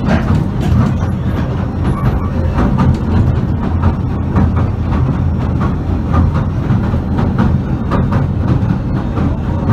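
Pier train running along the track, heard from inside the carriage: a steady low rumble with a continual clatter and rattle of wheels on rails.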